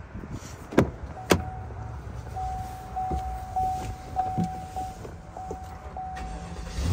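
Two sharp clicks from the pickup's door, a second in and half a second apart, then the cab's electronic warning chime sounding in on-and-off stretches.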